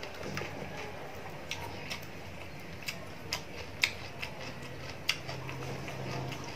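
Eating sounds from chewing crisp fried small fish: a few sharp crunchy clicks scattered about half a second to a second apart. A low steady hum comes in about five seconds in.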